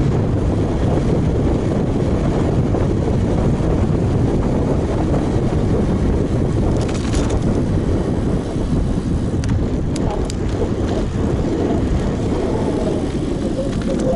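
Heavy wind buffeting on an action camera's microphone while a road bike is ridden at speed, with a few short clicks about seven and ten seconds in.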